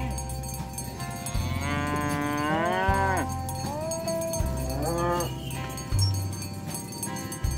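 Cattle mooing: one long moo that rises and then falls in pitch about two seconds in, then a shorter moo about five seconds in. Background music with a steady bass beat runs beneath.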